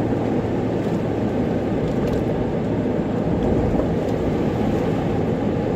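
Steady rumble of a truck's engine and tyres heard from inside the cab while driving on a snow- and ice-covered road.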